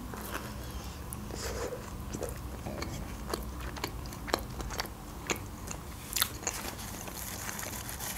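Close-miked chewing of a bite of pizza: soft crunches of the crust and wet mouth clicks coming irregularly, one or two a second.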